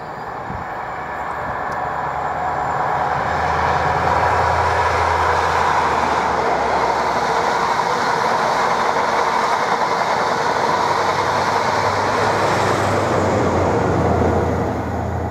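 Class 43 High Speed Train passing at speed, growing louder as it approaches, then a steady rush and rumble of the coaches' wheels on the rails. A low diesel engine drone comes twice: first as the leading power car goes by, and again near the end as the trailing power car passes.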